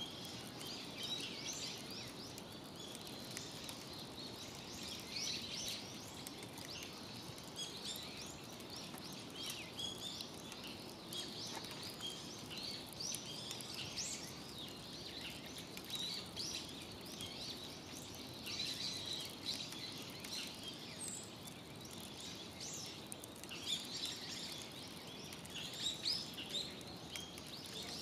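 Wood fire crackling in a fire pit, with irregular small pops and snaps over a steady low outdoor hum.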